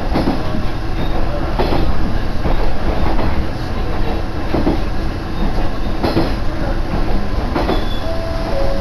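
Diesel railcar, a KiHa 110 series, running along the line, heard from on board: a steady rumble of engine and wheels, with irregular knocks as the wheels cross rail joints. A brief thin tone comes in near the end.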